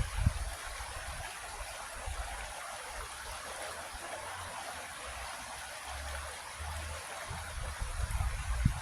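A creek flowing with a steady rushing and trickling of water. Brief low rumbles come at the very start and again near the end.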